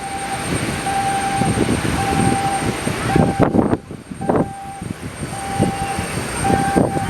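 Strong gusty wind buffeting the microphone, surging in uneven gusts. Through it, an electronic beep repeats about once a second, each beep about half a second long.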